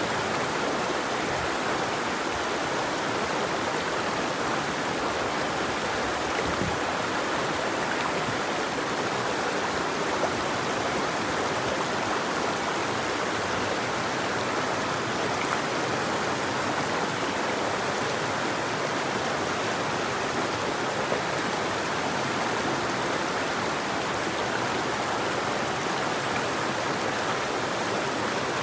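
Steady flowing water of a river or stream, an even rushing with a few small splashes.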